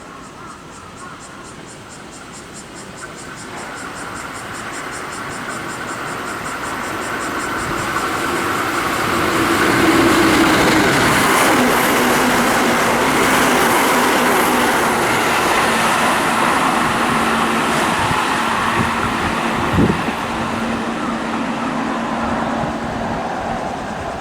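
Keihan 1000 series electric train passing through the station at speed: wheels running on the rails and a steady motor hum build to a peak and then ease off as it goes by, with a single sharp thump shortly before the end.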